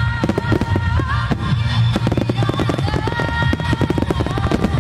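A rapid barrage of aerial firework shells bursting, many reports a second, starting about a quarter second in, over loud music.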